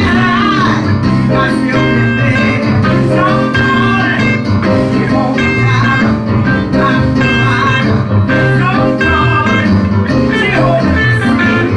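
Live gospel church band playing: a guitar carries a melodic lead of short, bending notes over a steady bass line.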